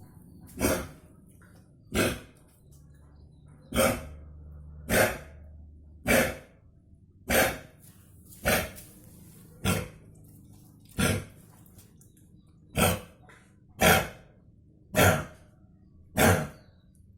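A dog coughing over and over: short, harsh coughs about once a second, some thirteen in a row, each starting sharply and trailing off.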